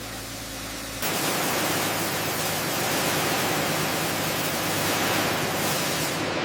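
A low steady machine hum, then about a second in a loud, even hiss starts abruptly and holds steady over the hum.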